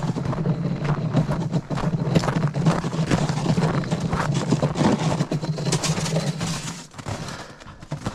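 Small engine running steadily with a low hum, then stopping about seven seconds in.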